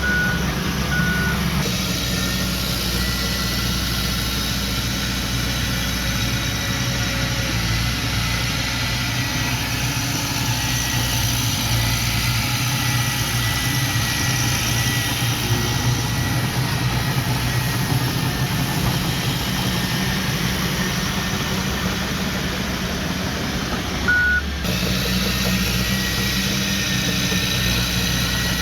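Heavy earthmoving machinery, a bulldozer and dump trucks, running steadily with a deep diesel drone. A few short high beeps sound near the start and again about 24 seconds in, and the sound changes abruptly around 2 seconds and 24 seconds in.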